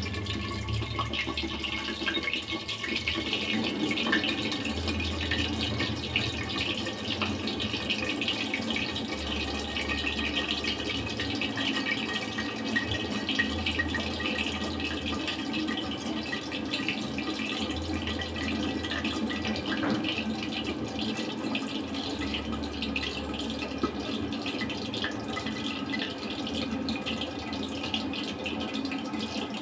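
Chicken cooking in a pan covered with a steel plate on a gas stove: a steady sizzling hiss with fine crackles.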